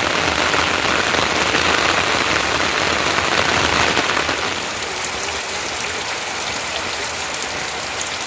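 Heavy rain falling, a steady hiss. About halfway through it gets a little quieter and the patter of individual drops stands out.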